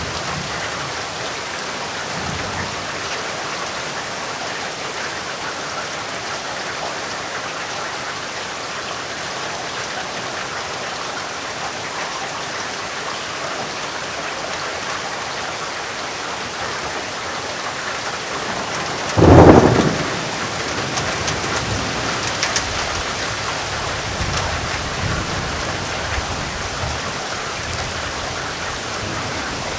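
Steady rain falling. About two-thirds of the way through comes a sudden loud thunderclap, followed by several seconds of low rolling thunder under the rain.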